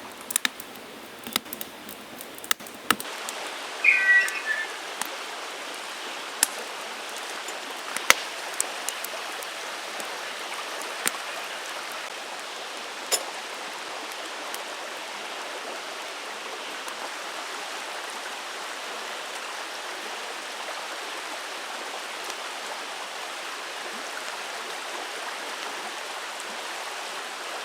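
A campfire being started: sharp crackles and snaps come thick over the first dozen seconds, then thin out. Under them runs a steady rushing hiss, with a brief chirp about four seconds in.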